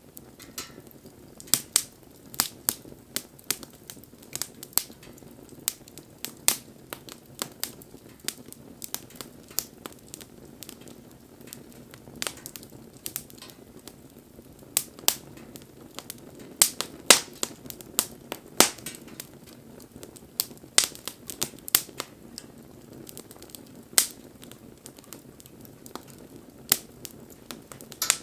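Wood fire burning and crackling: irregular sharp pops and snaps, several a second at the busiest, over a low steady hiss of flame.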